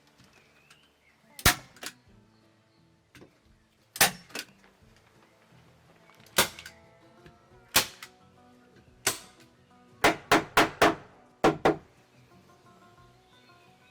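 A series of sharp, loud knocks from hand-tool strikes: single blows a second or two apart, then a quick run of four about ten seconds in and two more just after. Soft background music plays underneath.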